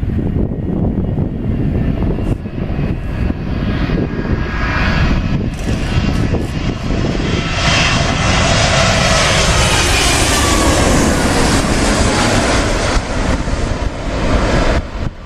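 Boeing 777-200's GE90 jet engines on landing approach, passing close by: the jet roar swells from about two seconds in and peaks near the middle, with an engine whine falling in pitch as the aircraft goes past.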